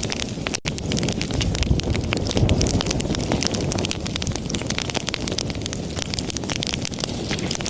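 Wood fire burning in a fireplace: a steady low rush of flames with many small, irregular crackles and pops from the burning logs. There is a split-second gap in the sound about half a second in.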